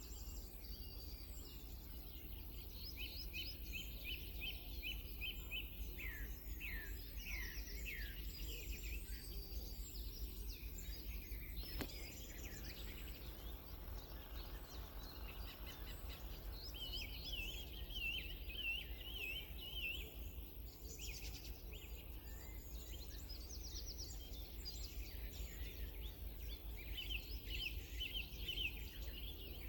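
Several songbirds singing at once: repeated rapid chirps and trills, with runs of quick down-slurred notes, over a steady low hum.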